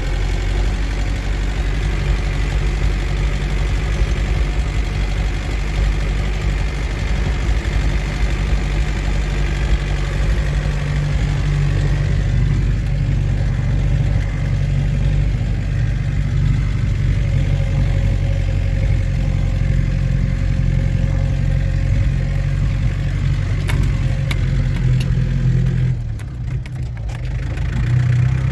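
New Holland TCE50 tractor's diesel engine running steadily. It drops briefly near the end, then picks up again.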